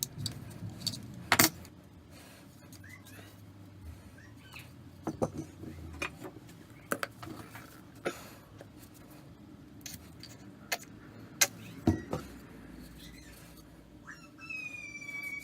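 Scattered light clicks and knocks of small hard objects being handled, a dozen or so spread irregularly with brief quiet between. Near the end a high, drawn-out call with a slightly falling pitch begins.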